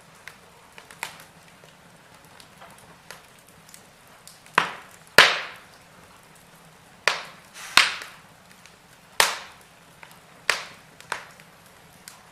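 Wood fire in a fireplace crackling: light ticks over a faint hiss, then a run of about seven sharp pops from burning logs, the loudest about five seconds in.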